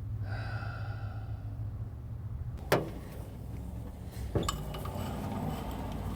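Metal clinking under a car: a brief ringing tone in the first second, then two sharp metal knocks about a second and a half apart, over a low steady hum.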